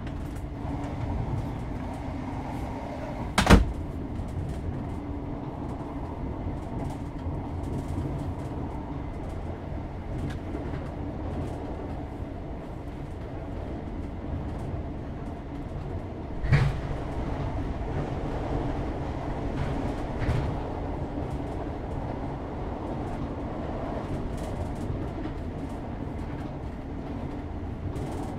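Inside a Class 321 'Renatus' electric multiple unit's Mark 3-derived coach on the move: the steady rumble of wheels and running gear, with a loud sharp knock about three seconds in and another a little past halfway.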